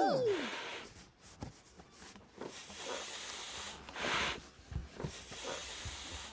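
Cartoon sound effects: a short rising-and-falling whistle-like glide at the start, then a series of separate hissing spurts with a few soft thumps between them.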